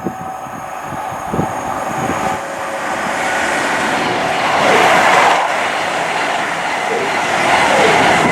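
Diesel train running past the platform: a rushing engine and wheel noise that builds up and swells loudest about five seconds in and again near the end, with a few brief falling tones at those peaks.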